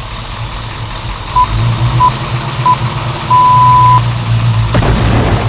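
Race-start countdown: three short beeps, then one long higher-level beep, over a steady low truck-engine rumble that grows after the long beep. A sudden impact-like noise follows about a second later.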